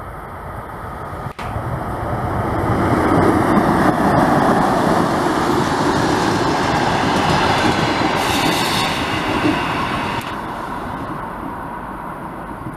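Passenger train hauled by a Škoda-built ChS4 electric locomotive passing close by: the rumble and clatter of wheels on the rails builds as the locomotive comes up and the coaches go past, drops suddenly about ten seconds in, then fades as the train draws away.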